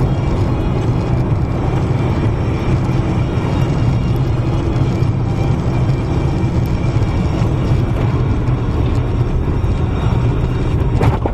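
Steady low rumble of a car's engine and road noise heard from inside a moving vehicle, with a brief sharp knock near the end.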